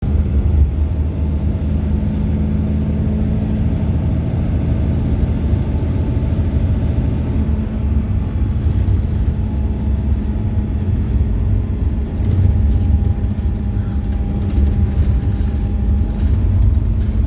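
Bus engine running steadily with low road rumble, heard from inside the bus. Light clicks and rattles come in from about halfway through.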